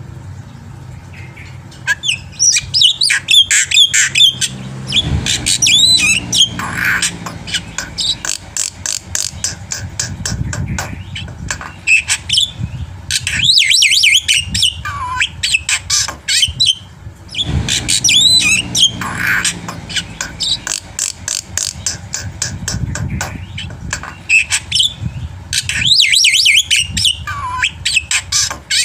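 Black-winged myna (jalak putih) singing a long, varied song: fast chattering clicks, harsh squawks and whistled up-and-down glides in phrases of several seconds, with brief pauses between them.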